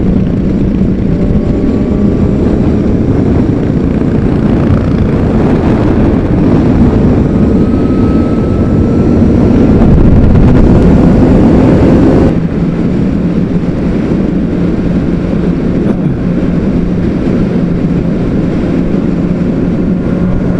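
Honda CBR600RR's inline-four engine running at highway speed. Its note climbs gradually as the bike accelerates, then the sound changes abruptly about twelve seconds in to a steady cruise.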